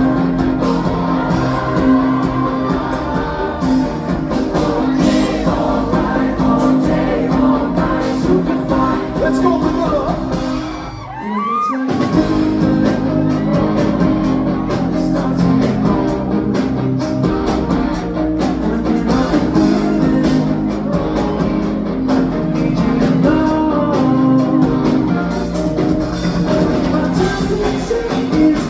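Live pop band playing a song with a sung vocal over guitar and drums. About eleven seconds in the music briefly drops out under a rising sweep, then comes back in full.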